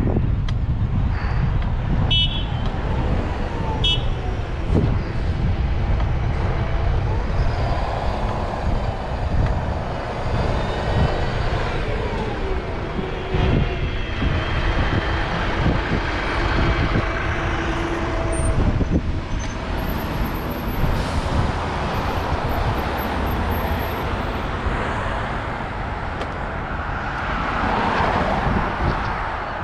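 Wind buffeting the microphone of a moving bicycle, with road traffic passing alongside; a motor vehicle's engine goes by in the middle.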